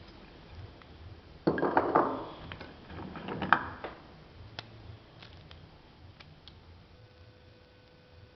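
Roasted pinhão shells cracking and crackling as they are split open by hand: a dense cluster of crackles and clicks from about a second and a half in to about four seconds, then a few faint ticks.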